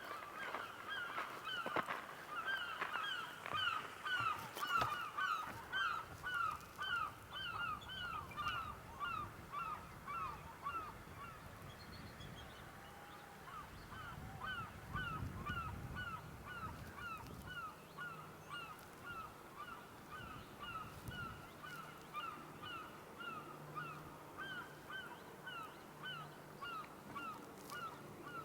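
A bird calling over and over in a long, steady series of short, downward-slurred notes, about two a second, with no pause.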